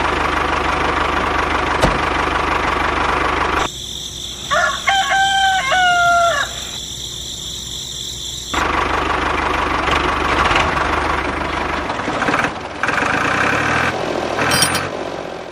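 A rooster crows once, a few seconds in, in a quieter stretch between spells of steady mechanical whirring.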